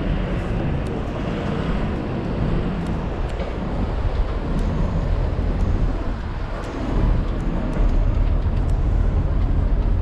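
Road traffic passing: a steady low rumble of car engines and tyres that grows louder about seven seconds in.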